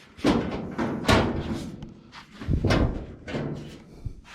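Driver's side door of an early Ford Bronco being swung and shut during fitting, several clunks with a short ring after each, the loudest about a second in.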